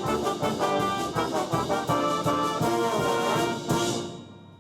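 Band playing a short brass-led passage over a steady percussion beat. Near the end it hits an accented final chord that rings out and fades.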